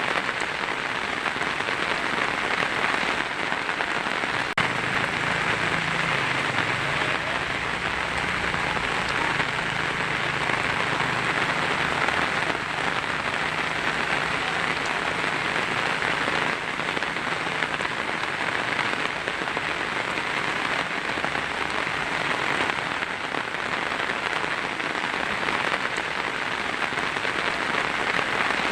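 Heavy rain drumming steadily on a tin roof, a dense, even patter. A faint low rumble sits underneath for much of the first half.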